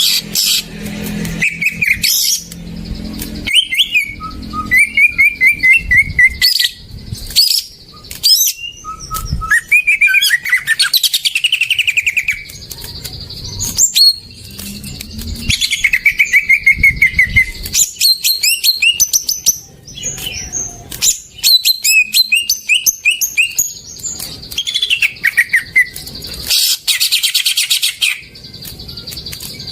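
Green leafbird (cucak ijo) singing a long, varied song: quick whistled notes in series that fall in pitch, chirps, and bursts of rapid loud ticking notes.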